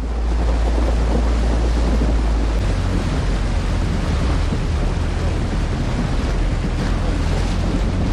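Steady rushing noise with a heavy, deep rumble of wind buffeting the microphone.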